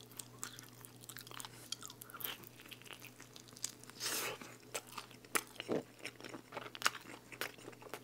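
Close-miked eating of a thin-crust pizza slice: wet chewing with crisp crunches of the crust, and a louder bite about four seconds in.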